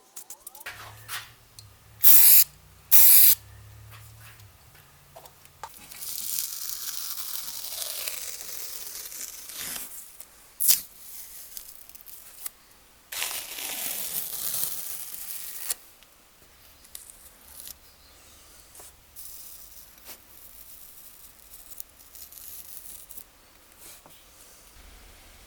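Aerosol spray can hissing in bursts: two short, loud blasts a second apart early on, then longer sprays of three to four seconds each, with quieter handling sounds between.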